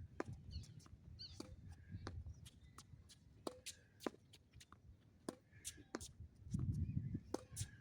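Tennis balls struck by racquets and bouncing on the court, a quick irregular series of sharp pops, with footsteps between them. Wind buffets the microphone with a low rumble near the end.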